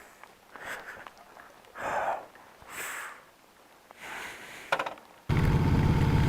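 A few soft breaths close to the microphone, then about five seconds in a motorcycle's V-twin engine comes in suddenly and runs steadily and loud.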